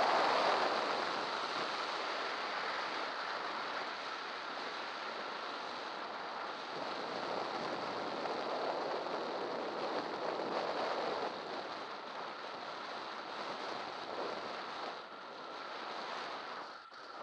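Steady rush of wind buffeting the microphone of a camera riding on a bicycle descending at speed, easing a little over the stretch, with a brief dip near the end.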